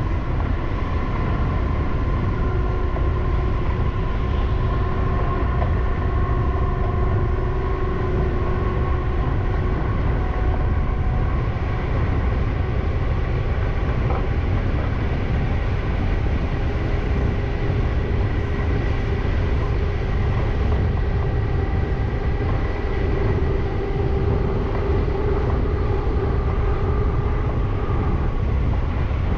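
Freight train hauled by a Siemens Vectron electric locomotive running along the track: a steady low rumble with several steady tones above it, and a single short knock about halfway through.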